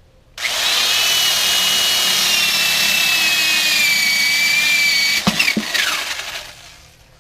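Electric drill boring a hole through a wooden board: a steady run with a high whine that sags slightly as the bit cuts, a couple of knocks about five seconds in, then the drill winds down.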